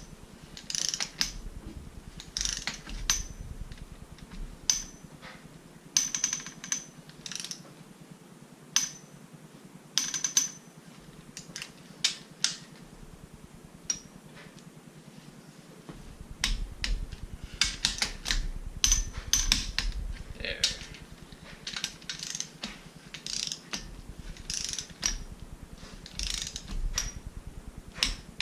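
Ratchet wrench clicking in short runs of quick clicks with pauses between, as the bolts of a Mazda 13B Renesis rotary engine are tightened down in sequence toward torque.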